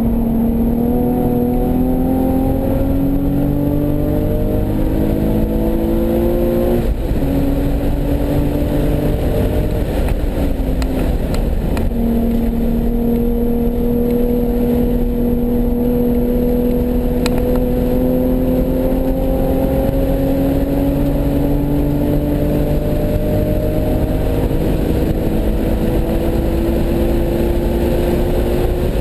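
Nissan 370Z's 3.7-litre V6 running hard on track. The engine note climbs and drops sharply at a gear change about seven seconds in, falls away again around eleven seconds, then rises slowly through the rest.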